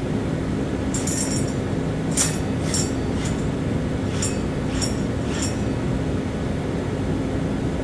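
A steady motor drone runs throughout, with about seven light metallic clinks between about one and five and a half seconds in.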